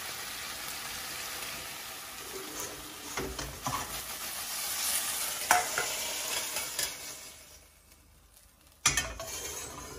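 Sliced chicken thighs sizzling in a hot wok, with a utensil clicking and scraping against the pan now and then. Near the end the sizzle fades away as the wok comes off the burner, then a single sharp knock.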